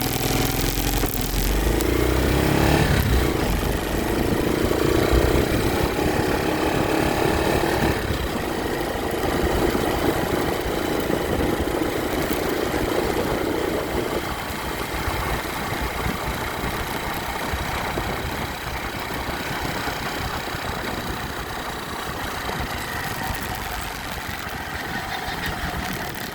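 Motorcycle engine running, its pitch rising and falling with the throttle through the first half, then settling steadier and a little quieter.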